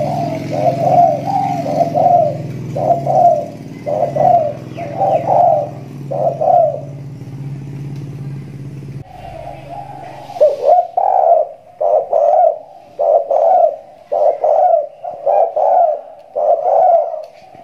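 Spotted dove (tekukur belah dada) calling in two runs of repeated coos, with a short break about halfway, the bird in full song after its moult. A steady low hum under the first run cuts off suddenly about halfway.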